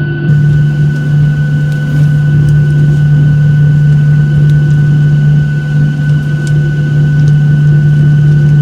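Steady drone in the cabin of a Boeing 737-800: a loud low hum with a thin, steady high whine over it, holding level throughout with a few faint ticks.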